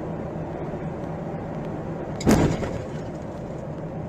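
Steady car running and road noise with a low hum, broken by one sudden loud thump a little over two seconds in.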